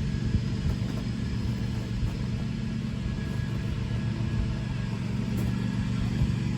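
Steady low motor hum from a vehicle hoist running, with a sharp knock right at the start.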